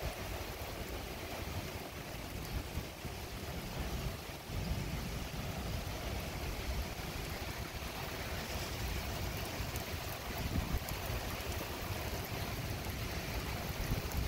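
Steady hiss of rain falling in a thunderstorm, with wind gusting against the microphone in low, uneven rumbles.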